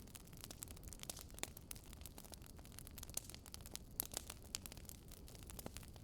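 Wood fire crackling: irregular sharp pops and snaps over a soft low rumble.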